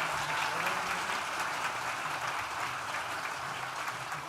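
Audience applauding steadily, a dense patter of many hands clapping that fades slightly near the end.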